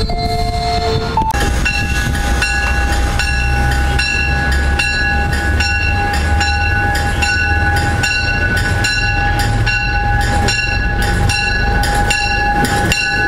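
MBTA commuter rail train: a horn chord cuts off about a second in, then the train's bell rings steadily at about two strokes a second over the low rumble of the train moving along the platform.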